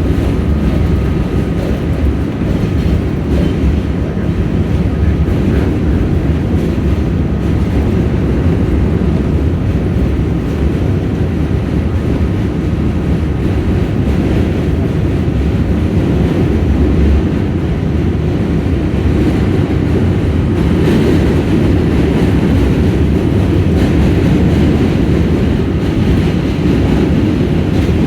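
New York City subway train running, a steady loud rumble with no letup.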